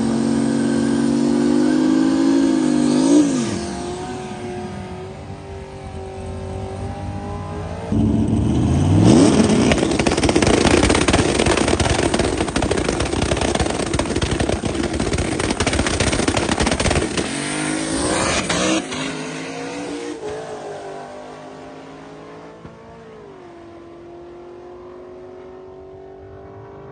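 Turbocharged 6.0-litre Gen 4 V8 in a drag-race Toyota pickup. It is held at steady revs at first, then drops back. About eight seconds in it launches hard with a sudden loud rise and a climbing pitch, and stays loud for about ten seconds. Then it winds down to a quieter steady running note.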